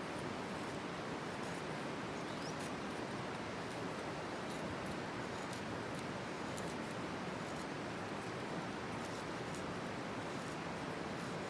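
Campfire burning: a steady hiss with faint small crackles scattered throughout.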